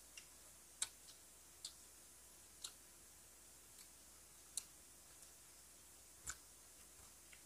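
Faint, sparse mouth clicks and smacks of chewing close to the microphone: about seven or eight sharp clicks at uneven intervals over low room hiss, with no crunching.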